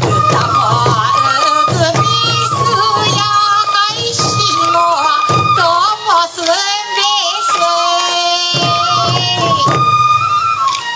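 Traditional Sansa Odori festival music: a bamboo transverse flute plays a held, ornamented melody over a singing voice and taiko drum beats.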